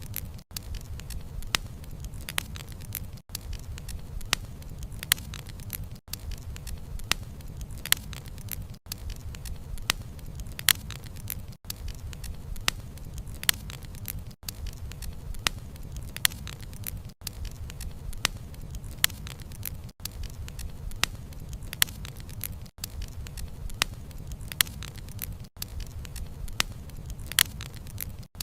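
Wood campfire burning with a steady low rumble and frequent sharp, irregular crackles and pops of the burning logs, with a brief dropout about every three seconds.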